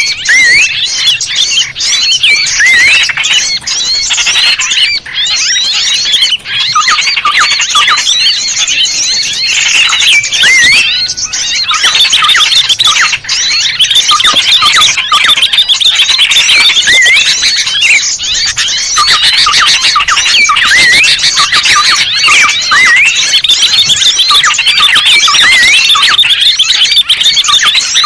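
A dense chorus of many small birds chirping and twittering at once, with quick rising and falling whistled notes that overlap without a break. It is a lure-call recording ('suara pikat') meant to draw small birds in.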